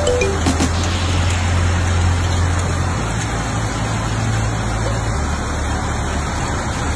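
Steady hiss of heavy rain falling on a street, with a low steady hum underneath. A tail of background music fades out in the first half-second.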